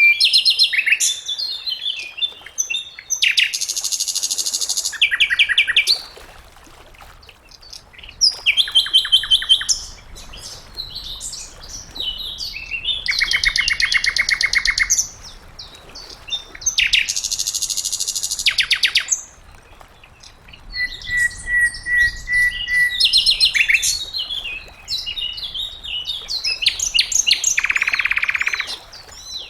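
Sikatan londo (a flycatcher) singing a varied song in separate phrases: fast rattling trills, buzzy stretches and a held whistled note, with short pauses between phrases.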